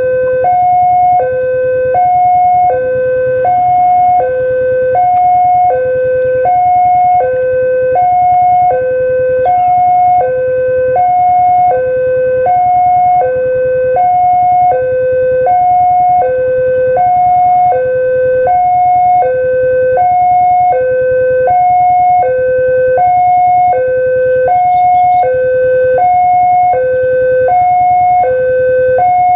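Railway level crossing warning alarm sounding: a loud electronic two-tone signal that alternates evenly between a high and a low tone, about one high-low pair a second. It warns that a train is approaching and the crossing gates are closing.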